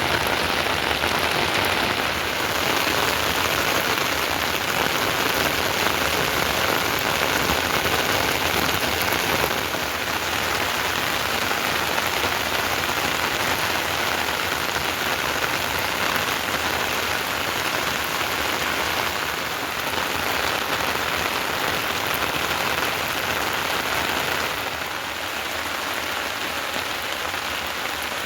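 Heavy rain falling steadily, a dense even hiss that eases slightly near the end.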